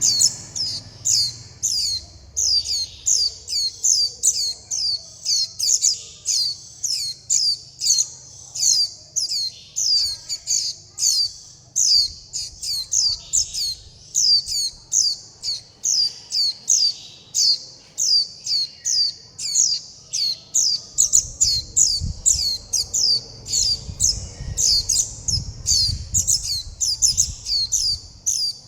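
Juvenile white-eye calling without pause: quick, high, thin calls that each slide downward, about two or three a second in small clusters, the begging calls of a fledgling asking to be fed.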